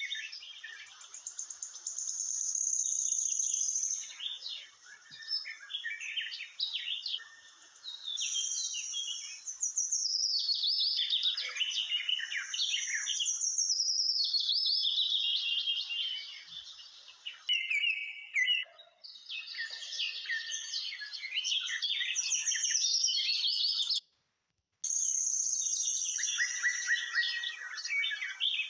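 Small birds chirping and singing in a dense, continuous chorus of high chirps, trills and falling whistles. The chorus breaks off completely for about a second near the end.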